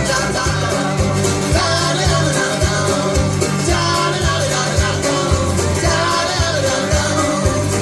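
A live folk-rock band playing loud, with drums keeping a steady beat under bass, guitar and a singing voice.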